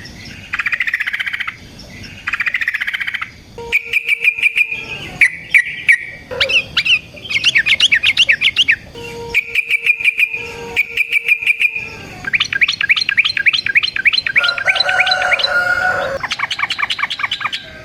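Yellow-vented bulbul (trucukan) singing in fast, loud chattering bursts. Rapid runs of sharp repeated notes and quick trills come one after another, broken by short pauses.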